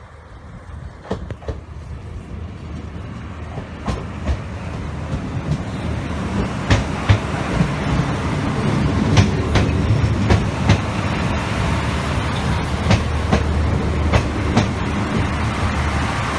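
Diesel train approaching and running past, growing louder over the first eight seconds or so, then holding steady. Its wheels click over rail joints again and again.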